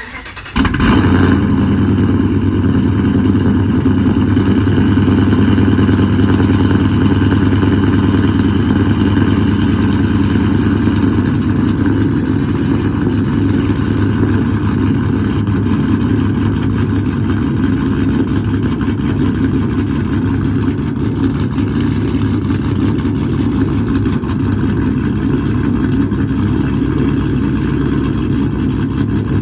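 Cold start of a 2011 Ram 1500's 5.7 L Hemi V8, fitted with a stage 3 cam, long-tube headers, X-pipe, no catalytic converters and muffler delete. The starter cranks briefly, the engine catches about half a second in, and it then idles loudly and steadily.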